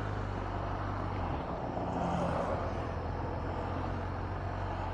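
BMW R1250 RT boxer-twin motorcycle running steadily at low speed under wind and road noise, with a brief swell of noise about two seconds in.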